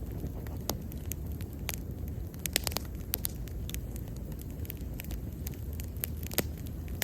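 Wood bonfire burning with a steady low rumble and frequent sharp crackles and pops, several bunched together about two and a half seconds in.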